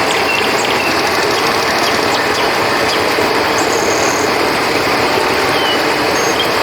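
Flowing river water rushing steadily, with a few short, faint high chirps over it.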